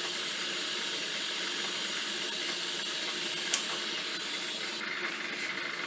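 Electric arc welding a steel spacer onto square steel tubing: a steady crackling hiss, with a single sharp click about three and a half seconds in and a change in tone near the end.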